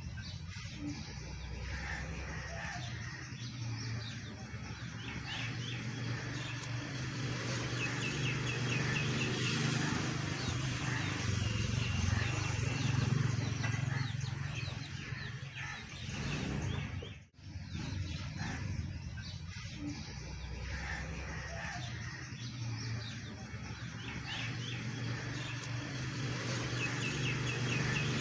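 Small birds chirping in quick short series, over a steady low rumble of outdoor background noise.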